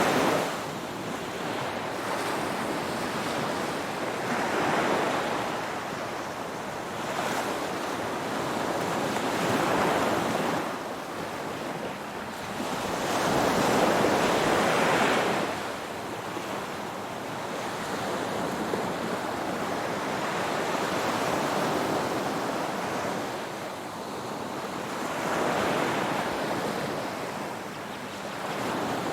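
Ocean waves breaking and washing on the shore, the surf swelling and easing every few seconds with a louder break about halfway through.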